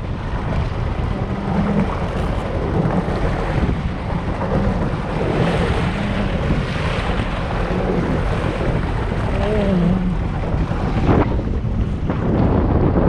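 Wind buffeting the microphone over rushing water, with the engine of a 1999 Sea-Doo XPL personal watercraft running underneath and its pitch wavering now and then.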